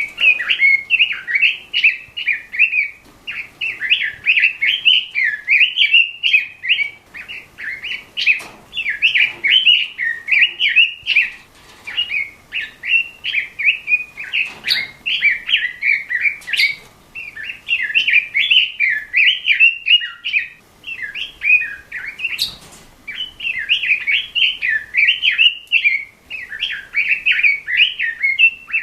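Red-billed leiothrix (pekin robin) singing a fast, continuous warbling song of rapid rising and falling notes in short phrases with brief pauses.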